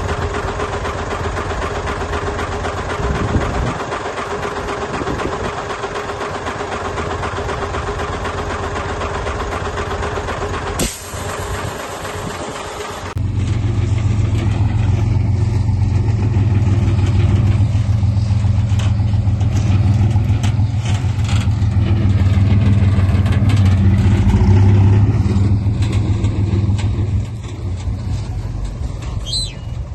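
Heavy diesel earthmoving machinery running: a busy, noisy engine and machine sound for the first ten seconds or so, then, after a short break, a louder and deeper diesel engine running steadily.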